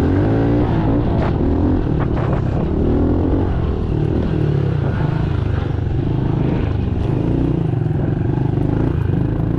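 Pit bike engine running under way, its pitch rising and falling again and again as the throttle is worked.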